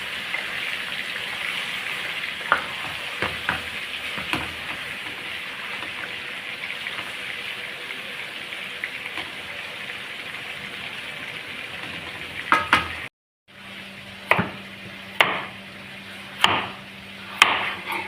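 Food sizzling in hot fat with a steady hiss and a few small clicks. After a sudden cut, a low hum with four sharp knocks about a second apart.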